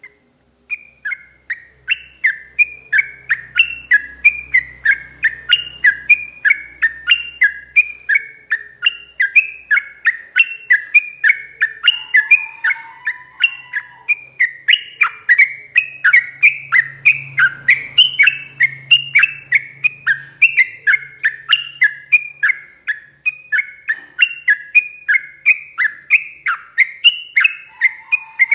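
Yellow-vented bulbul (trucukan) singing a long, unbroken run of short, quick repeated notes, about three a second, starting about a second in.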